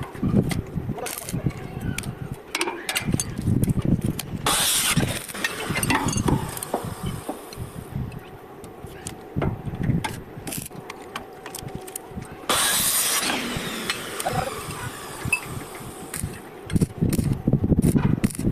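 Iron pieces clanking and knocking as they are handled during metal fabrication, with two short bursts of hissing noise lasting about a second each, about five and thirteen seconds in.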